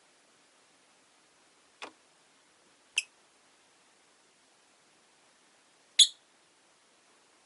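Peach-faced lovebirds giving three short, sharp chirps, each well apart from the next, the last the loudest.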